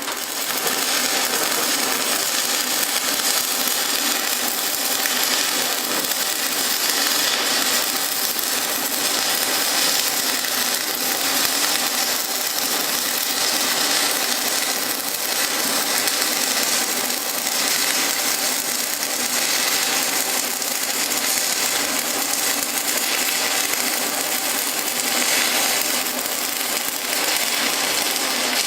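Stick (SMAW) arc welding on an Everlast Power206Pi inverter welder: a continuous, steady crackling arc hiss as one bead is run along a lap joint. It starts abruptly and cuts off near the end.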